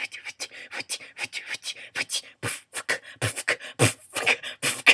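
Amateur human beatboxing: a fast run of mouth-made kick thumps, clicks and hissing hi-hat sounds, several a second, with heavier thumps in the second half.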